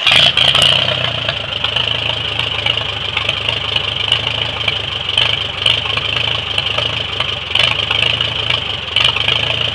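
1945 Farmall A's four-cylinder gasoline engine cold-started with the foot starter, catching at once, loudest in the first second, then running at a steady idle.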